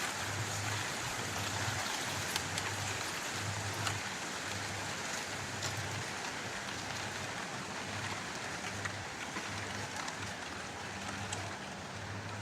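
Steady hiss of wind moving through trees, with faint crackles of footsteps on dry leaves and a soft low thud repeating at walking pace.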